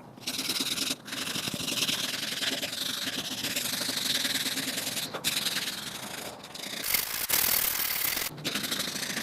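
Coarse 40-grit sandpaper rubbed by hand along the grain of a varnished oak rocking chair, a continuous scratchy hiss of back-and-forth strokes with a few brief pauses. The paper is scuffing off the old varnish.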